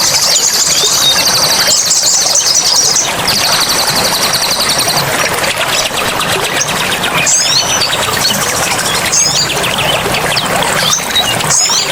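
Wild birds over steadily running water: a fast, high buzzing trill for the first few seconds, then short high chirps a few times.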